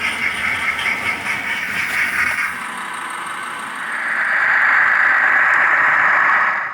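Steam locomotive sound effects from a model railway sound decoder, played through a small speaker. Uneven pulsing chuffs and hiss give way about four seconds in to a steadier, louder hiss, which cuts off suddenly.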